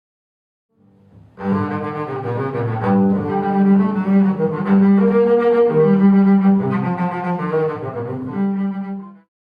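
Double bass played with the bow: a short, slow melody of several held notes, starting about a second and a half in and stopping shortly before the end.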